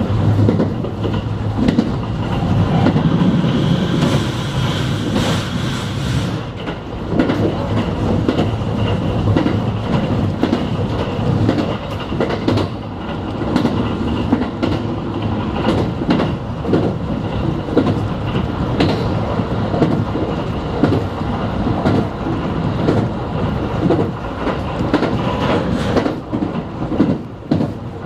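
A JR West 221 series electric train running at speed, heard from inside the passenger car: a steady rumble of wheels on rail with frequent clicks as the wheels pass over rail joints.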